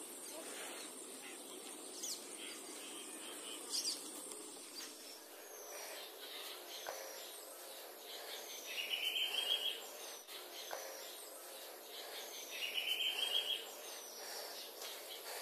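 Birds calling: two loud rapid trills, each about a second long, about midway and again later, over short high falling whistles repeating every second or so, with a steady background hiss.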